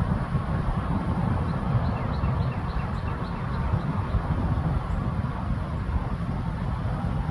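Steady low rumble, with a bird's run of about ten short, high, evenly spaced notes starting about a second and a half in.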